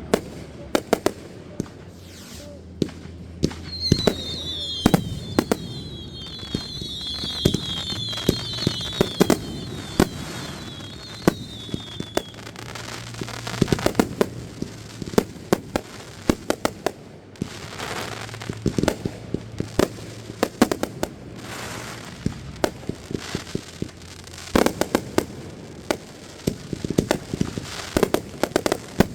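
Fireworks going off in a rapid, irregular string of sharp bangs. A run of short, falling whistles joins them from about four seconds in until about twelve seconds in.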